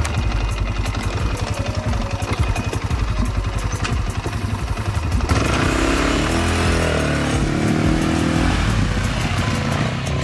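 ATV (quad bike) engine, first idling with a rapid low firing pulse, then revving up from about five seconds in and running with its pitch rising and falling as it is ridden.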